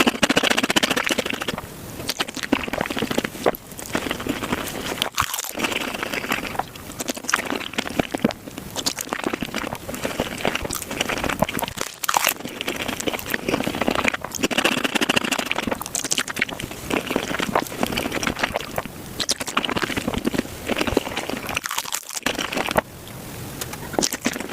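Close-miked eating sounds of raw shrimp being chewed, sped up. They form a dense run of rapid clicks that swells in bursts every second or two.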